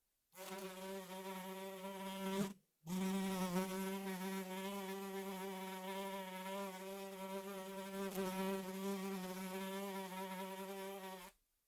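A fly buzzing in flight, one steady buzz whose pitch wavers slightly. It breaks off for a moment about two and a half seconds in, resumes, and stops near the end.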